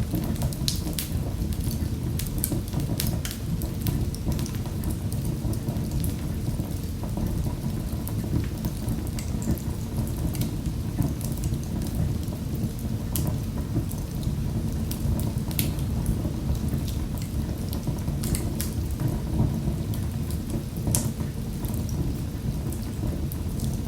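Wood fire crackling in a fireplace: frequent sharp pops and snaps over a steady low rush of the burning fire.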